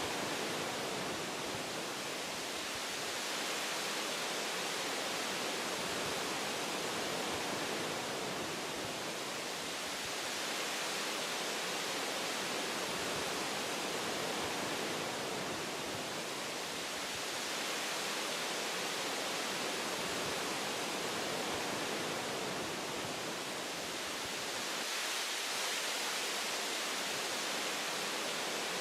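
Wind blowing through tree branches in a forest: a steady rushing, hiss-like noise that swells and eases gently every several seconds.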